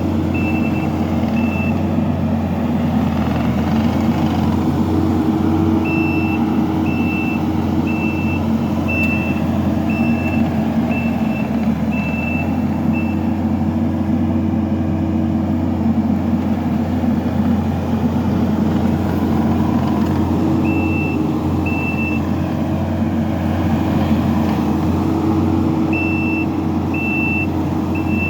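Diesel engine of a Kubota SVL65 compact track loader running steadily, with its reversing alarm beeping about once a second in several spells as the machine backs up.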